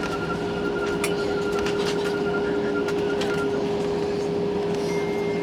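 Steady hum inside a moving vehicle, with one constant mid-pitched tone, a fainter higher tone that stops a little past halfway, and a few faint clicks.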